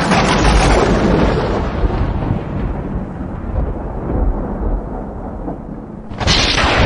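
Meme boom sound effect: a sudden loud blast with a long rumbling fade, followed by a second blast about six seconds in.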